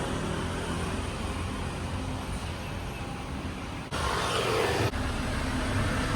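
Tourist river boat's engine running steadily under way, a low drone under a noisy rush. About four seconds in the sound cuts abruptly to a short, brighter stretch, then cuts back about a second later.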